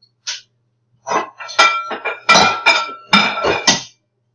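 Dishes and metal utensils clattering and clinking together in a quick run of knocks with a ringing after them, starting about a second in. The sound of a bowl and serving utensils being handled to dish up food.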